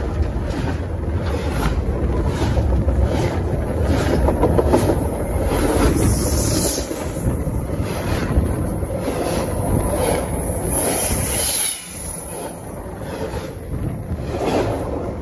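CN train cars rolling directly over a phone lying between the rails: a loud, steady rumble of wheels on rail with wind buffeting the microphone, dipping briefly near the end.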